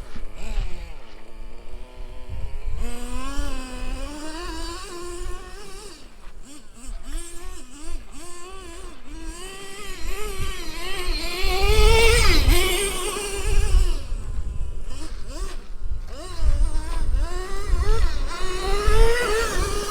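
Traxxas T-Maxx 3.3 nitro RC monster truck's small two-stroke glow engine revving up and down over and over as the truck is driven, its pitch rising and falling, highest and loudest about twelve seconds in.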